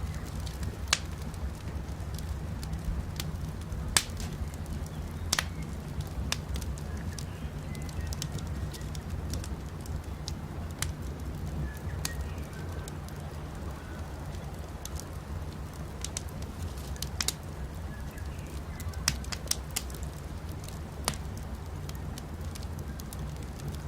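Campfire crackling: scattered sharp pops and snaps over a steady low rumble of burning wood, with faint bird chirps now and then.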